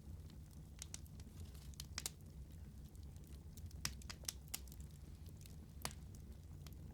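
Wood fire crackling: irregular sharp pops and snaps over a steady low rumble of burning, with a few louder pops in the second half.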